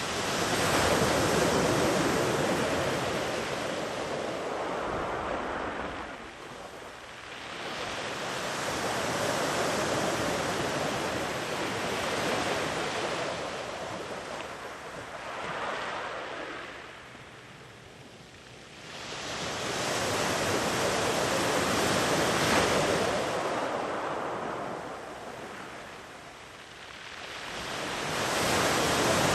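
Sea waves breaking and washing far up a sandy beach, a full hiss of surf that swells and fades in slow surges every several seconds, four big ones here.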